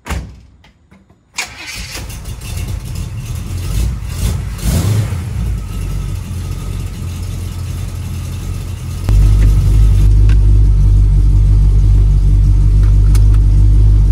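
Small-block Chevy V8 of a 1936 Chevrolet coupe hot rod cranked on the starter for about a second, then catching and running, with a brief rev a few seconds later. About nine seconds in it runs much louder and settles into a steady low rumble.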